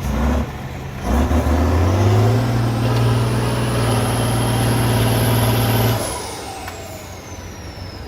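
Diesel trial truck engine revving up hard and pulling under load for several seconds, then backing off about six seconds in. A high turbo whistle rises with the pull and winds down after the throttle is lifted.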